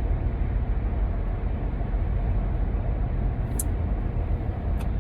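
Steady low rumble of a running vehicle, with two brief faint ticks in the second half.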